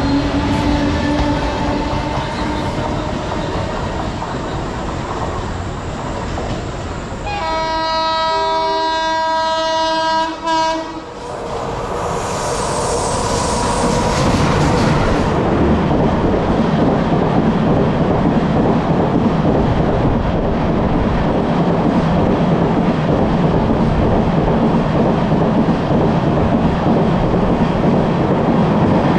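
Trains running through a station at speed, with a steady rumble of wheels on the rails. Partway through, a train's multi-tone horn sounds for about four seconds. After that the rush of a passing train grows louder.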